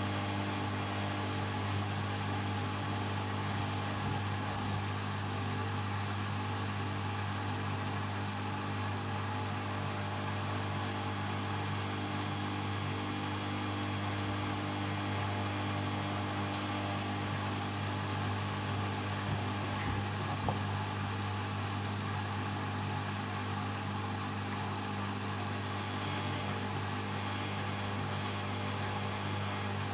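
LG washing machine running with a steady, even hum.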